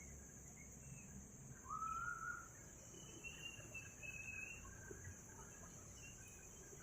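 Night insect chorus: a steady, faint, high-pitched drone, with a few short calls from other animals over it. The clearest call rises and then levels off about two seconds in.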